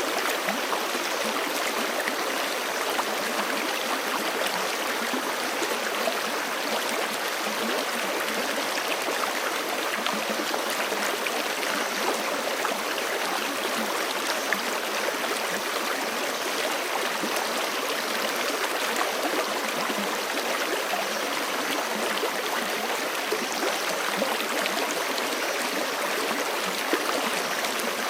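Forest creek flowing steadily over rocks, a continuous rushing and splashing without pause or change.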